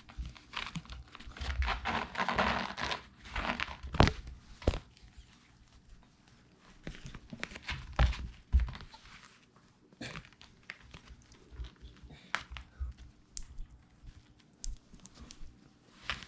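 Cats playing with a string toy: irregular rustling, crinkling and scrabbling, with scattered clicks and a few sharper knocks. It is busiest in the first few seconds and thins to sparse clicks later.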